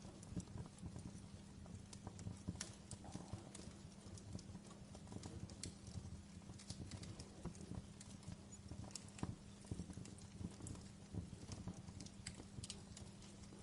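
Wood fire of burning logs crackling, with irregular sharp pops and snaps over a low steady hum.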